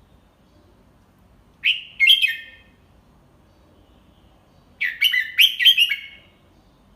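Red-whiskered bulbul singing its tutor song: two short phrases of quick whistled notes, about three seconds apart, the second phrase longer.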